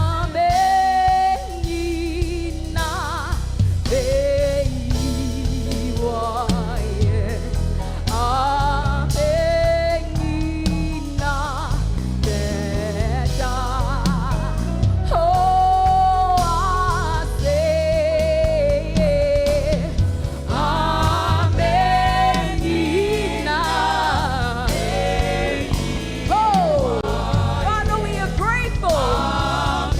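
Gospel worship song: sung voices holding long notes with vibrato over a continuous instrumental backing, with more voices layering in from about two-thirds of the way through.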